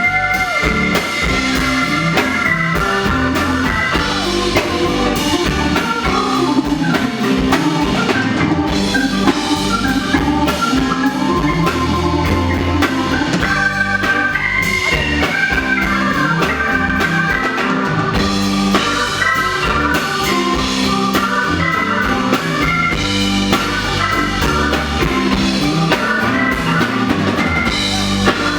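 Live rock band playing, with an organ-toned keyboard solo over drum kit and bass.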